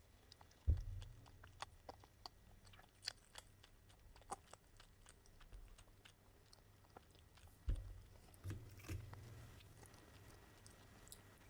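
A person chewing and biting McDonald's food, with many small crisp clicks and crunches. A few dull thumps stand out, the loudest about a second in and again near eight seconds.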